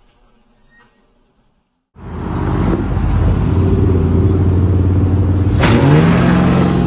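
Car engine and road noise start abruptly about two seconds in and run steadily. Over a second before the end comes a sharp bang, followed by wavering, gliding tones.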